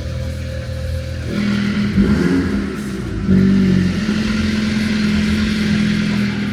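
Mini Challenge 210's engine running through its JCW exhaust, getting louder about a second in and again about three seconds in, with a short sharp crack near two seconds.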